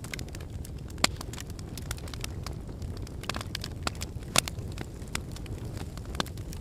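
Wood fire burning in a fireplace: a steady low rumble under irregular sharp crackles and pops from the logs, with louder pops about a second in and at about four and a half seconds.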